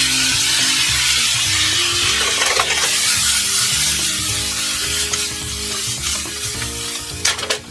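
Spinach, bacon and garlic sizzling in oil in a frying pan as they are stirred, with a steady frying hiss. A few sharp knocks of the utensil against the pan come near the end.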